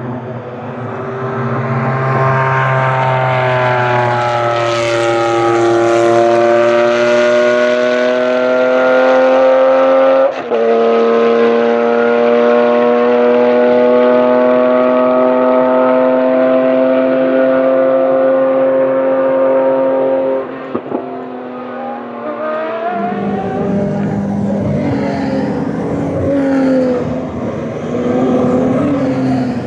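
Racing car engine running hard at high revs, its pitch slowly climbing as it pulls through the gears, with quick gear changes about ten seconds and about twenty seconds in. After about 23 seconds it gives way to a rougher mix of engine sound.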